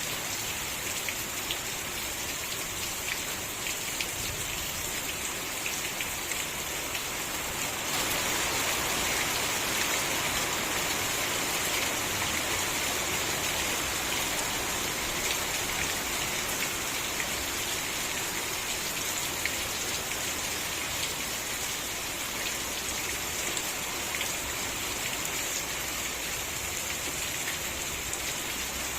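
Steady rain falling on surfaces, with many fine drop ticks. It grows heavier about eight seconds in.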